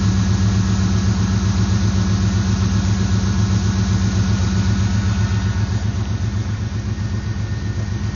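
A vehicle engine idling steadily with an even, pulsing low note, growing a little quieter about halfway through.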